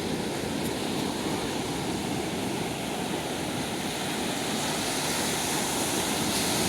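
Ocean surf washing onto the beach, a steady rushing wash of waves.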